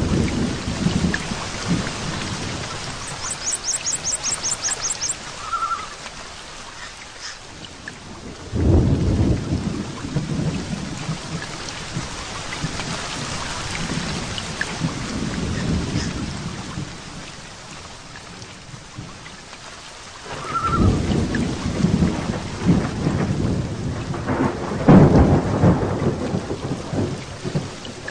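Heavy rain falling steadily, with rolling thunder rumbling up at the start, about a third of the way in, and twice near the end. A quick run of high ticks sounds briefly a few seconds in.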